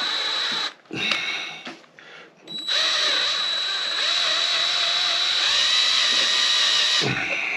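Power drill running in bursts, drilling out a stripped screw in a 1973 Honda CB450 engine: a short run that stops just under a second in, a brief burst about a second in, then a long steady run from about two and a half seconds until near the end.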